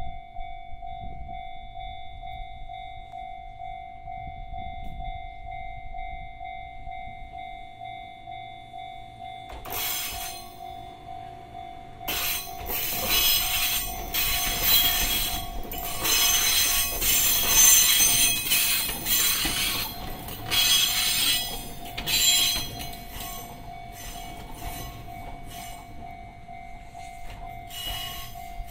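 A level-crossing warning bell rings steadily while a Fujikyu 1000 series electric train rolls slowly over the crossing. From about ten seconds in, its wheels clack and rattle over the rail joints and the crossing, with some squeal; this is loudest for the middle ten seconds and then fades as the train moves away.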